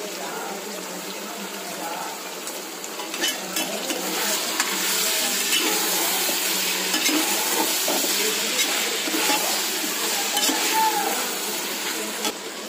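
Raw chicken pieces sizzling as they fry in onion-tomato masala in a pressure-cooker pot. A perforated steel ladle stirs them, scraping and knocking against the pot. The sizzle grows louder about four seconds in, as the stirring gets going.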